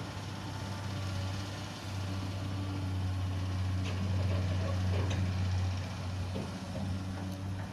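Heavy diesel engine running steadily at idle: a low, even drone, with a few faint knocks about four and five seconds in.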